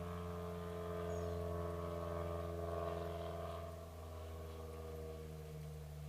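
A low mechanical drone from an engine or motor, steady with a slight downward drift in pitch, growing weaker after about four seconds.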